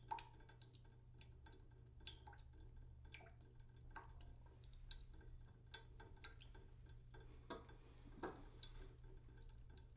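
Water dripping slowly into a cooking pot in a sink: faint, irregular drops, one or two a second, some with a short ringing plink, over a steady low hum.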